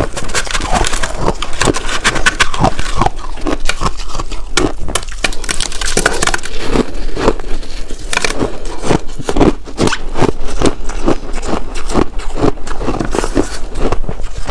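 Chunks of ice being bitten and chewed close to the microphone: a continuous run of crunches and crackles, several a second.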